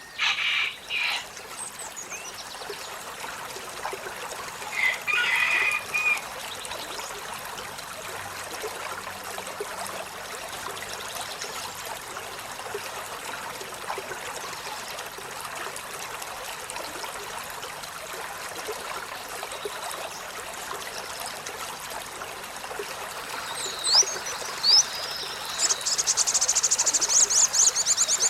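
Olive-backed sunbird calling over steady trickling water. A few short calls come in the first second and again about five seconds in; near the end there are sharp sweeping notes, then a fast, high trill.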